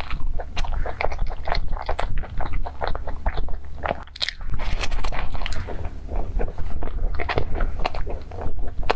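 Chewing of cream puffs with a crackled cookie-crust top, many small crackles and mouth sounds, with a bite into a fresh puff about four seconds in.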